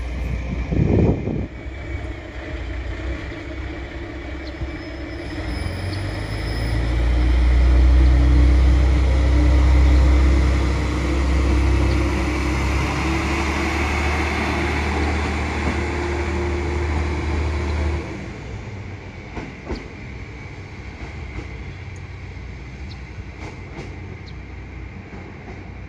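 A train running at the station, with a deep rumble that builds and is loudest about a third of the way in. The train sound cuts off abruptly about two-thirds of the way through, leaving quieter station background with a few clicks.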